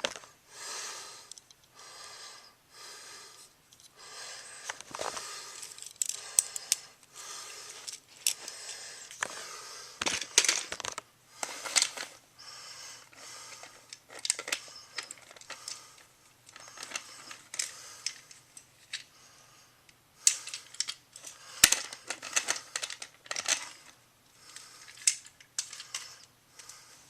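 Plastic toy trains and a toy helicopter being handled and moved by hand: irregular clicks, taps and short rustles scattered throughout, over a faint steady hum.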